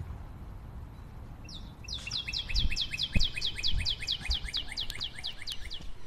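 A bird calling a rapid run of short, sharp downslurred notes, about six a second, starting about one and a half seconds in and stopping just before the end. A few low thumps come in under it.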